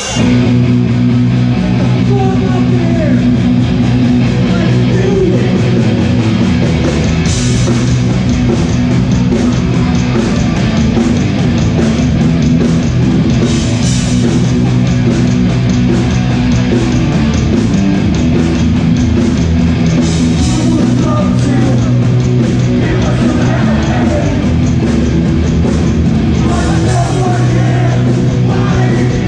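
Live hardcore punk band playing a fast loud song with electric guitar, bass and drums, kicking in abruptly at the start; crash cymbal hits stand out every six or seven seconds.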